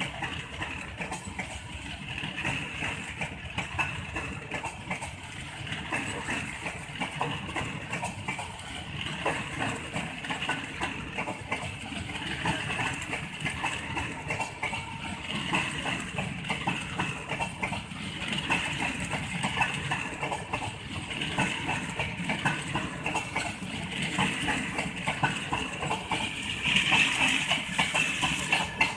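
LHB passenger coaches of an Indian Railways express rolling past at close range, their wheels clattering steadily over the rails, with dense rapid clicks throughout. The sound grows a little louder near the end.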